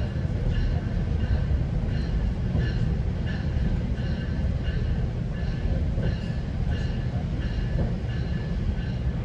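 GO Transit commuter train running, a steady low rumble heard from aboard, with a ringing tone repeating evenly about three times every two seconds.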